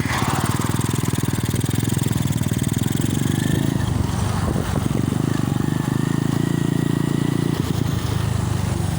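Motorcycle engine running steadily, its rapid low firing pulses constant, with a light hiss of wind over a phone microphone.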